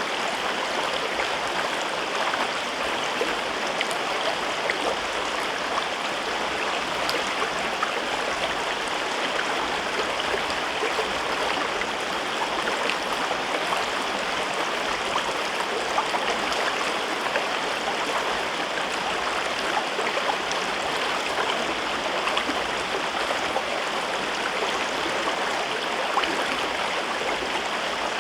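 A mountain river flowing over rocks in a gorge: a steady rushing and babbling of water, with small splashes flecked through it.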